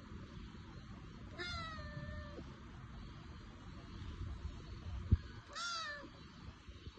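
A kitten meowing twice: a long, slightly falling meow about a second and a half in, and a shorter one near the end. A single sharp click comes just before the second meow.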